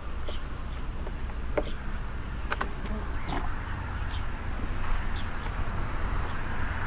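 Insects chirping in a high, evenly pulsing trill, over a steady low rumble and a few faint clicks.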